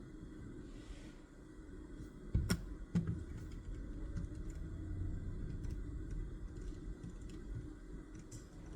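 Desk-study handling sounds: two sharp knocks on the desk about half a second apart, a few seconds in, then a few faint ticks, over a low steady room rumble.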